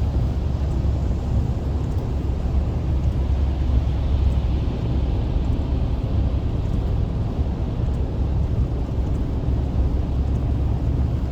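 Steady road noise of a car driving at highway speed on a wet road: a low rumble of engine and tyres, with a hiss that swells and fades about halfway through.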